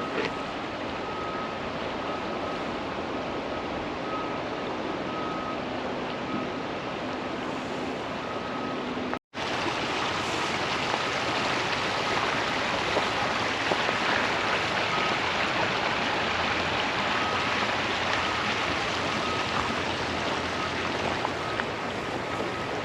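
Water rushing in a creek, a steady hiss. It cuts out for an instant about nine seconds in and resumes a little louder.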